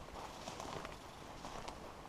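Soft, irregular footsteps crunching on the forest floor.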